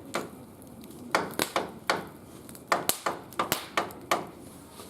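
Two stones struck together by hand, as with a flint to make sparks: about a dozen sharp clicking knocks at an uneven pace, several in quick runs.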